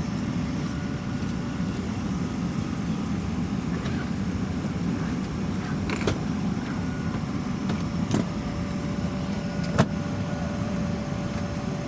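Steady cabin noise inside a Boeing 737-400, a low rumble and rush with a faint steady tone, broken by three sharp clicks, the loudest near the end.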